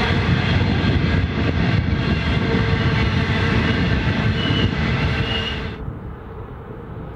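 Coal train hopper wagons rolling past, their wheels rumbling on the rails, with a brief high wheel squeal near the end. About six seconds in it cuts off sharply to a much quieter low rumble.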